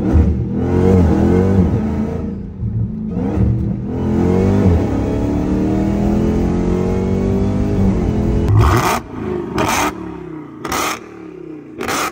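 Chrysler 300 SRT's swapped-in supercharged Hellcat V8 on its stock exhaust, heard from inside the cabin under hard acceleration: the engine note climbs, drops at each upshift and climbs again through three gears. Near the end come several short, sharp bursts about a second apart.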